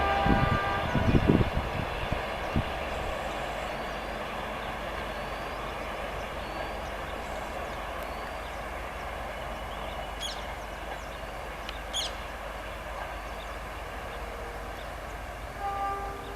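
A train running past on the line, with a few loud knocks in the first second and a half, then its rumble slowly dying away as it recedes. Birds chirp briefly twice, about ten and twelve seconds in.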